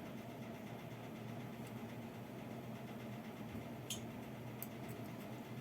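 Faint steady low hum with a few brief small clicks a little before the end.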